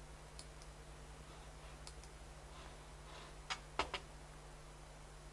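Light clicks and taps of painting tools being handled while picking up yellow watercolour, three sharper ones close together about three and a half seconds in, over a steady low hum.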